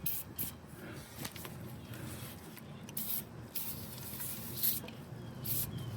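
Aerosol can of PB Blaster penetrating oil sprayed in a series of short squirts of hiss, soaking the bolts and fittings so they will come loose.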